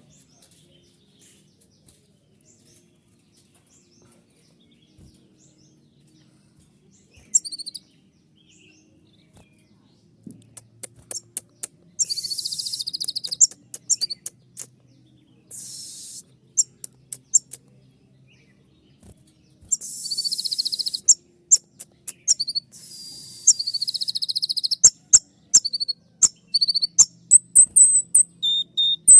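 Kolibri ninja sunbird singing high-pitched songs: after a quiet start, sharp shot-like calls mixed with buzzy trills, ending in a fast run of sharp calls.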